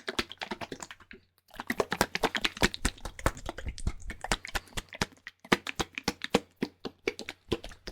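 Rapid, irregular clicking and crackling close to the microphone, with a short pause about a second in.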